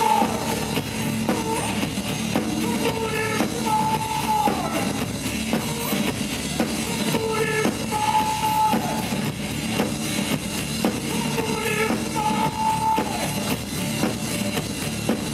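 Live rock band playing an instrumental passage: a steady drum-kit beat under a short melodic phrase that repeats about every four seconds, each time ending on a held note.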